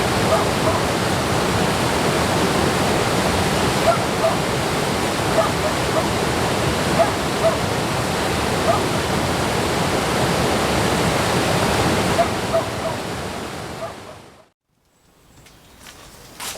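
Steady rush of flowing water, like a mountain stream or small waterfall, with small splashes on top. It fades out near the end and gives way to a much quieter background.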